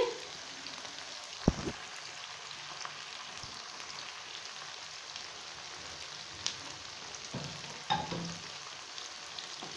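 Chicken, onions and tomatoes sizzling steadily in hot oil in a karahi. There is a light knock about a second and a half in, and a couple more near the end.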